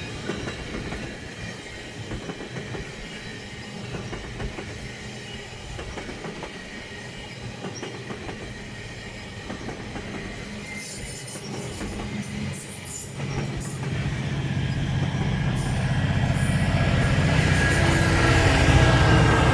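A train passing on the rails: wheels clicking over the track with brief high-pitched squeals. From about two-thirds of the way in, a low engine drone grows steadily louder.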